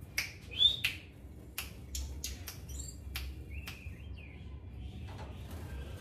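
Caged songbird chirping in short calls that glide in pitch, with a run of sharp clicks and taps from the wire cage as it is handled.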